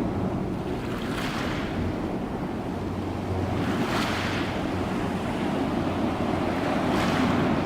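Ocean waves breaking and washing in, with a steady low rumble of surf beneath. The hiss of the wash swells up three times, about every three seconds.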